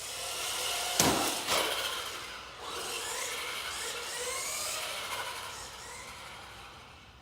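1/18-scale Axial RC trophy truck driving, its electric motor whining up and down in pitch as it speeds up and slows. There is a sharp knock about a second in and a smaller one half a second later, and the sound fades away near the end.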